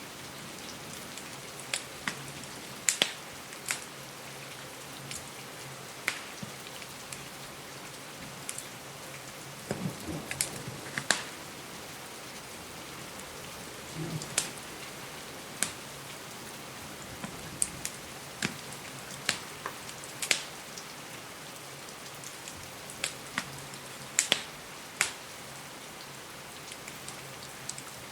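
Steady rain hiss mixed with a crackling wood fireplace: irregular sharp pops and snaps, about one or two a second, over an even wash of rain.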